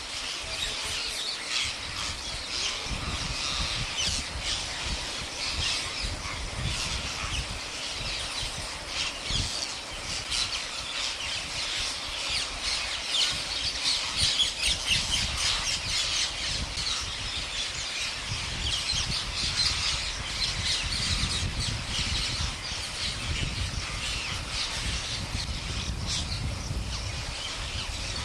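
A large flock of parrots calling, many short squawks overlapping into a continuous chatter, with a low rumble underneath.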